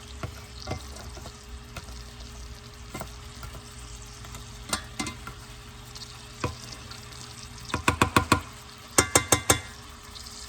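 Sofrito sizzling as it fries in a pot while it is stirred, with occasional single knocks of the utensil. About eight and nine seconds in come two quick runs of four or five loud, sharp knocks, the utensil striking the pot.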